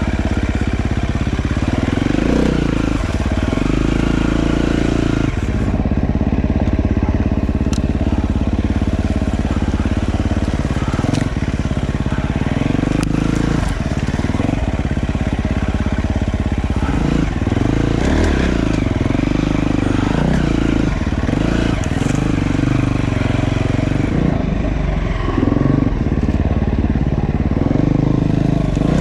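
Dirt bike engine running as it is ridden, the revs rising and falling again and again.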